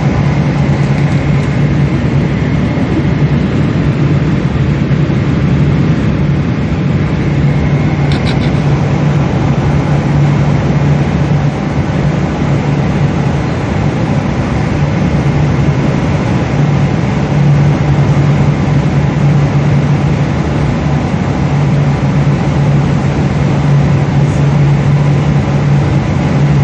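Boeing 777 cabin noise: a steady rush of jet engines and airflow with a constant low hum.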